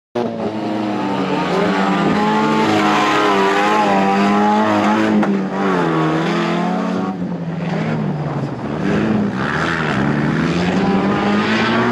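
Off-road race vehicle engine revving hard, its pitch rising and falling over and over as it climbs through the revs and shifts.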